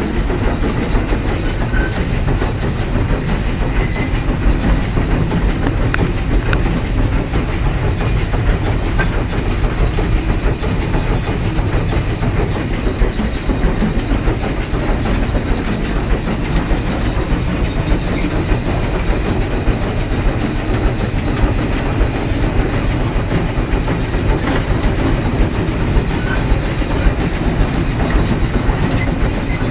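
Heisler geared steam locomotive running along the track, heard from its cab: a steady, even rumble of wheels on rail and running gear, with no pauses or changes.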